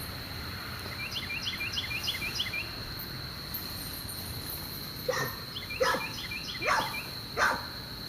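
Steady high-pitched insect drone, with two runs of quick chirps, and in the second half four short cries from a young animal, each falling in pitch.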